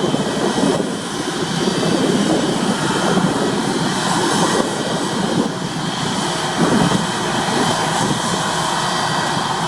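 Airbus A321 jet engines running at taxi power: a steady, loud rushing noise with no sharp changes.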